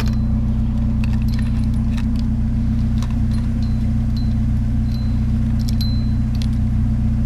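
Vehicle engine idling with a steady low hum, with scattered light clinks and ticks as a small USB light is handled.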